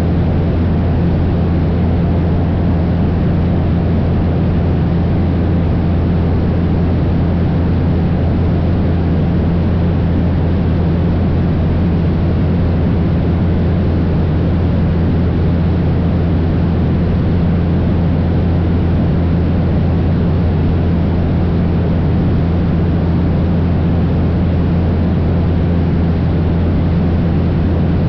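Cessna 172's piston engine and propeller droning steadily in flight, a constant low hum over rushing noise.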